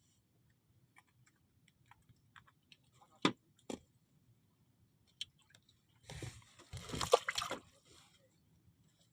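A few sharp knocks, then water splashing and sloshing for about two seconds near the end.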